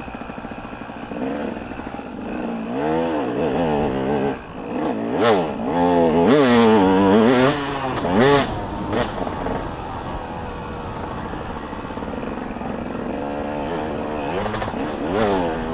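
Motocross dirt bikes racing, their engines revving up and down through the gears. The engines are loudest from about five to eight seconds in, then settle into a lower, steadier drone.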